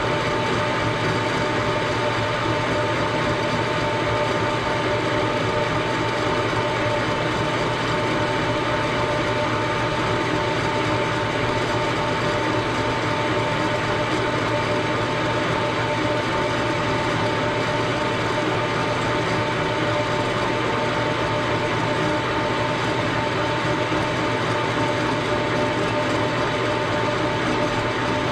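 Machine tool running steadily while cutting a cast-iron engine frame, a continuous mechanical noise with a steady whine.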